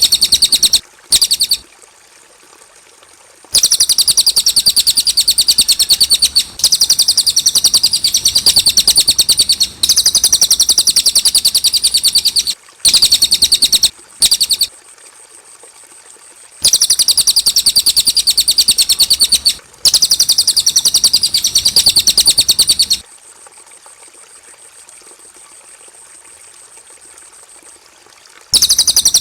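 Cililin bird singing in long phrases of very rapid, high-pitched repeated chirps, each phrase lasting several seconds. The phrases are split by pauses: two short ones and one of about five seconds near the end.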